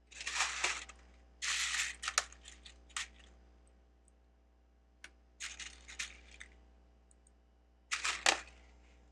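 Loose plastic Lego pieces rattling and clicking as hands sift through them, in four short bursts of clatter with sharp clicks.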